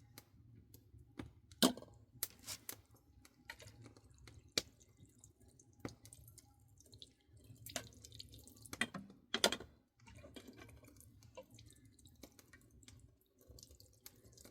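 Scattered sharp clicks and taps at irregular intervals, a few louder than the rest, over a faint low rumble.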